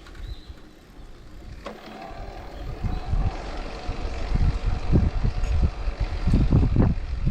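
Wind buffeting the microphone while it moves along: an uneven low rumble of gusts that grows louder about three seconds in, over a faint steady hum.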